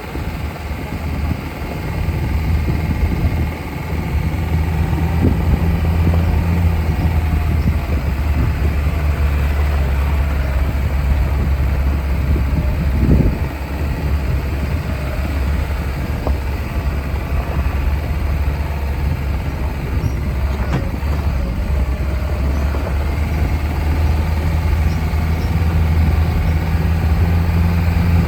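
Lada Niva engine running as the car drives over a rough off-road track: a steady low engine hum with scattered knocks and rattles, and a single louder knock about halfway through.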